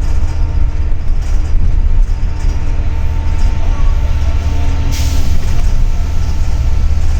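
Double-decker city bus heard from inside while it drives: a steady low engine and road rumble with a faint steady whine. About five seconds in there is one short hiss.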